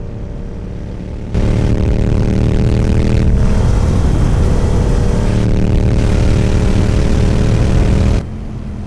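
Sport motorcycle engine pulling hard under acceleration, loud, with heavy wind rush over the helmet microphone; it cuts in a little over a second in and drops away near the end, with a short break in the engine note about three seconds in.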